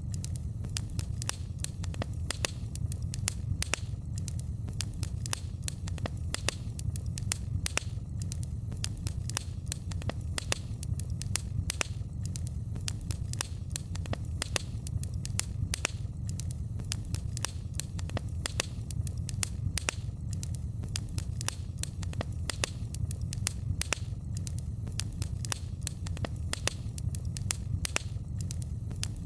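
Wood fire crackling in a fireplace, with frequent irregular sharp pops and snaps over a steady low rumble of the flames.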